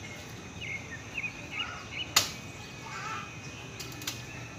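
Birds chirping in short calls, with a sharp click about two seconds in and two fainter clicks near the end.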